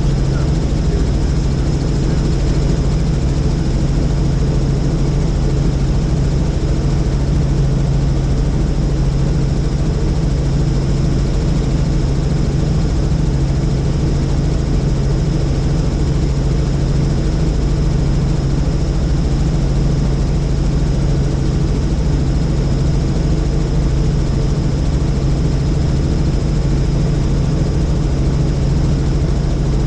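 Helicopter in flight: a steady, unchanging drone of engine and rotors, with a strong low hum and a faint high whine above it.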